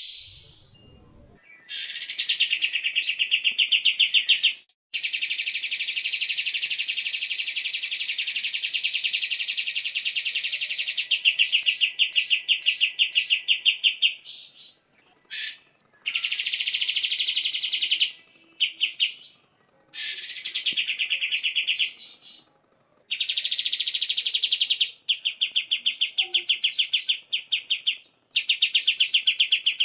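White-rumped shama (murai batu) singing long runs of fast, rapidly repeated high notes, in phrases of several seconds that start and stop sharply, with short gaps between them.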